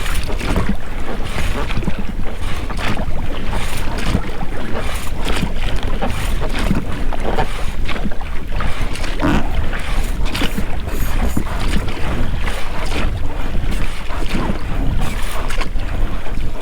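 Oars splashing and dripping in the water while an inflatable boat is rowed, with the rubber rowlocks working at each stroke. A steady low rumble of wind on the microphone runs underneath.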